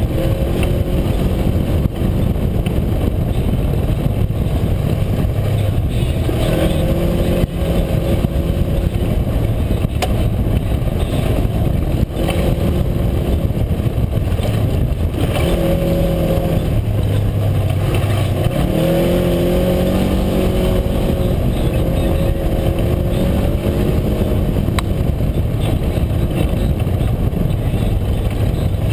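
UTV engine running while under way, its pitch rising and falling as the throttle opens and closes, over a constant low rumble.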